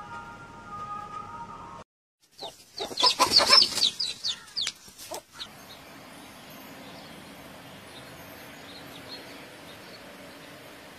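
A loud burst of rapid bird squawks and chatter lasting about three seconds, followed by a steady faint outdoor background with light chirps.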